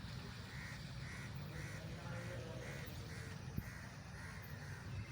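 A bird calling in a rapid series of short, arching calls, about three a second, over a low steady rumble.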